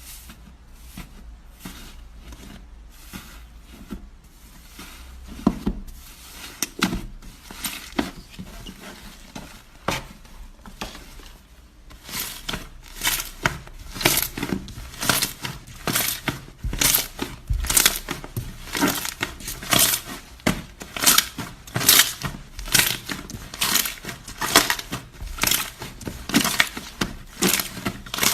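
Slime being squeezed and worked by hand, making repeated crackling, popping strokes that grow louder and come about twice a second from about halfway through.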